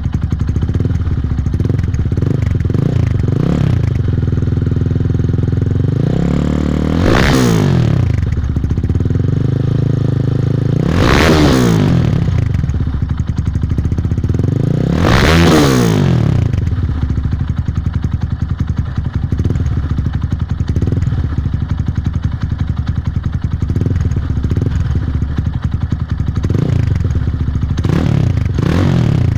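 Engine exhaust through a straight-through (pryamotok) muffler, idling with a rough, rapid beat, then revved three times, about 7, 11 and 15 seconds in, each rising sharply in pitch and falling back to idle; smaller throttle blips come near the start and near the end.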